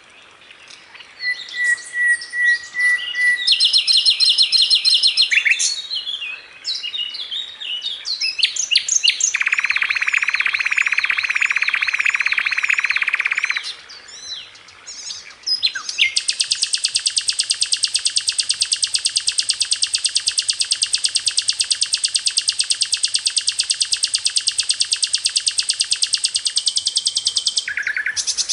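Sikatan londo (a flycatcher) singing a masteran song of varied chirps and quick repeated notes, with a buzzy rattle in the middle. From about halfway through it gives a long, very fast, even rapid-fire trill (the 'tembakan') that runs for about twelve seconds.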